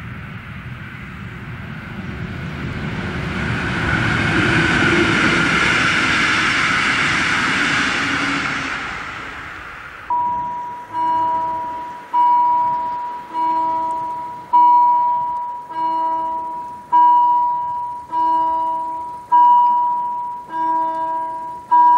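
A Siemens ER20 (class 223) diesel locomotive hauling passenger coaches passes: a broad rumble and rolling noise that swells, peaks and fades away. Then a level-crossing warning bell rings steadily, a clear ringing strike about every 1.2 seconds, warning that the barriers are about to come down.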